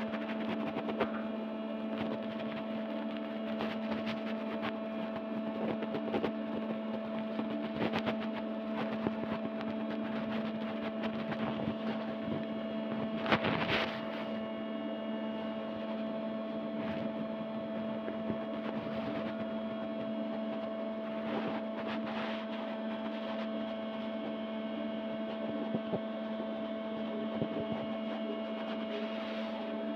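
A steady hum: a low tone and a higher one held unchanging, with many fainter tones above them. Faint clicks come now and then, and there is a brief louder noise about halfway through.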